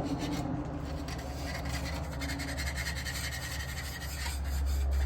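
Steady scraping and scrubbing on an old Detroit Diesel 12.7 oil pan as it is cleaned, over a low steady hum that grows slightly louder near the end.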